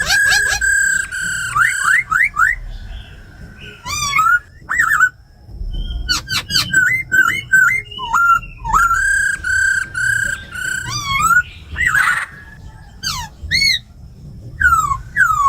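Laughingthrush singing a loud whistled song: long held whistles broken by quick rising and falling slurred notes, phrase after phrase with short pauses between.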